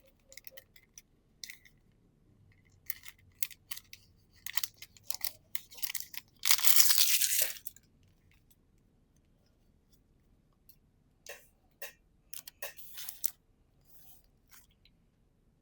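Pokémon booster pack wrapper being handled with crinkles and light taps, then torn open in one longer, louder rip about six seconds in, followed by a few more crinkles and taps.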